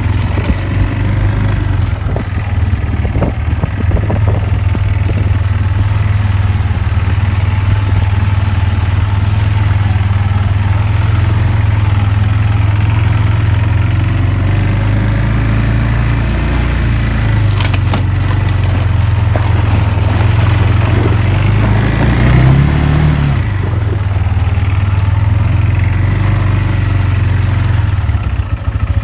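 Four-wheeler (ATV) engine running steadily as it rides along a trail, revving up briefly about three-quarters of the way through.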